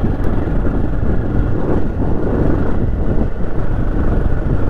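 Motorcycle running steadily while being ridden along a dirt road, a continuous low engine and road rumble.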